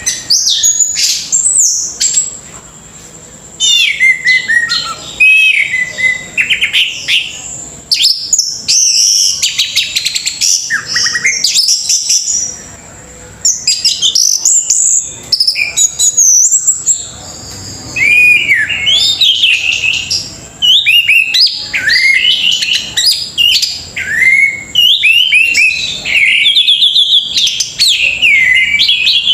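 Orange-headed thrush (anis merah) singing a long, varied song of rapid whistled phrases with quick rising and falling glides, breaking off for short pauses every several seconds.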